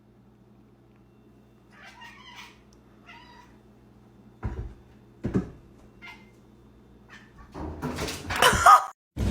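Domestic cat meowing: faint meows early on, two thumps in the middle, then a loud drawn-out meow near the end, over a faint steady hum.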